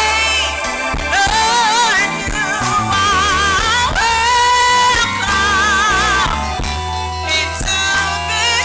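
Gospel singing with vibrato on long held notes over a steady bass accompaniment.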